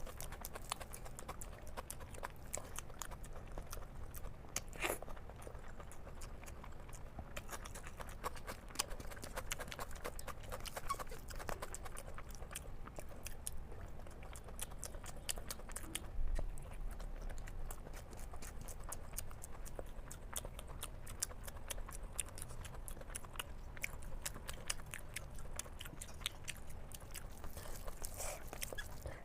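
Close-miked chewing and eating sounds: steady wet mouth clicks and smacking from someone eating egg curry with rice.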